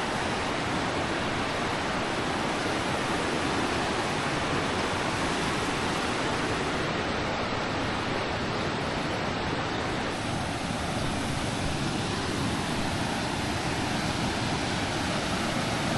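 Floodwater in a wadi in spate, rushing with a steady, unbroken roar.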